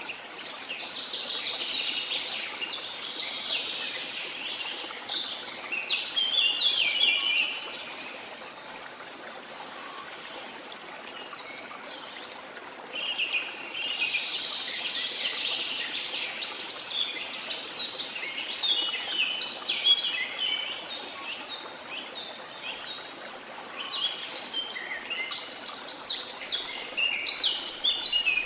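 Birds singing in three long bouts of rapid high chirps and trills over the steady rush of a waterfall.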